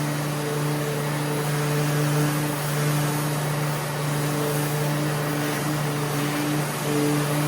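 SurfPrep 3x4 sander running on a cabinet door with a Festool vacuum drawing dust through the hose: a steady hum over a hiss, with a higher hum that drops in and out as the sander works.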